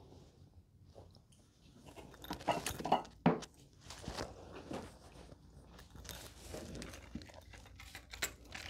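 Merchandise packaging being handled: irregular crinkles, scrapes and light clicks of cardboard and plastic. It starts after a couple of quiet seconds and is busiest around three seconds in.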